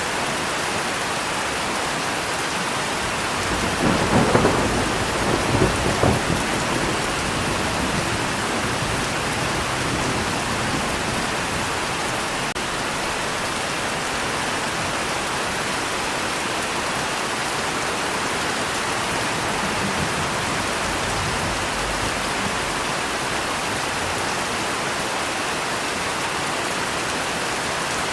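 Steady rain falling, with a roll of thunder rumbling about four seconds in for a couple of seconds before the rain alone carries on.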